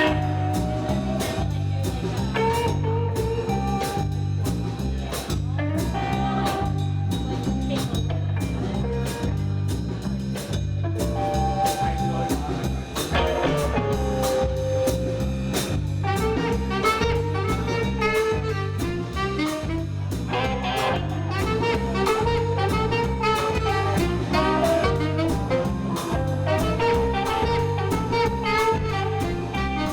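A small jazz band playing: a bass line stepping steadily note to note under drums with busy cymbals, and a horn carrying the melody above.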